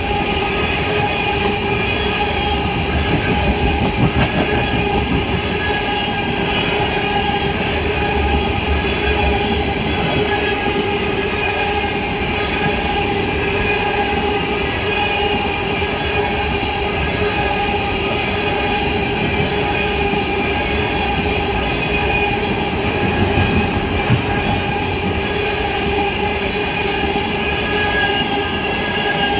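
Empty ethanol tank cars of a freight train rolling steadily past at speed, wheels rumbling and clattering on the rails, with a steady squealing tone from the wheels above the rumble.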